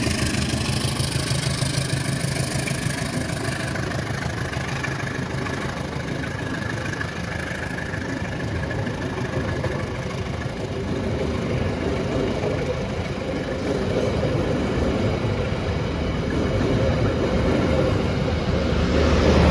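Train running on the track: a steady rumble with rail noise, getting louder toward the end.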